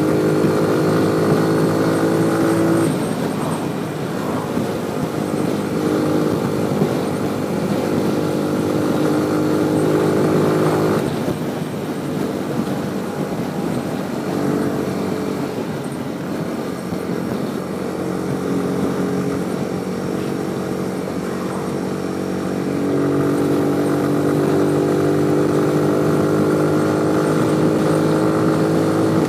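Motorcycle engine running under way, its note holding steady and then dropping about three seconds in and again at about eleven seconds, then climbing and holding higher for the last several seconds, over a constant rush of road and wind noise.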